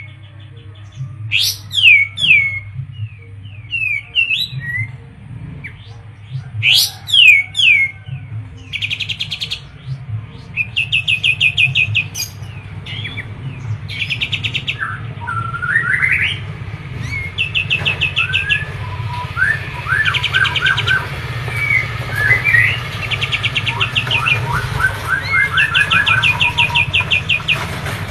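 Kapas tembak bulbul singing a long, varied song: sharp down-slurred whistles first, then rapid rattling trills repeated over and over, alternating with lower warbled phrases. A steady low hum runs underneath.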